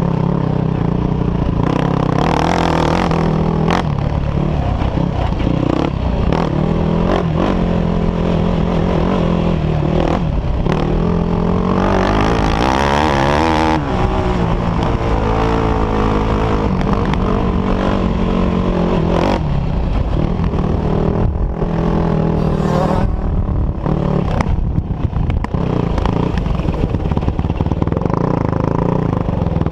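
Off-road quad and dirt bike engines running and revving, the pitch climbing and dropping again and again as the throttle is worked, with one strong rev near the middle.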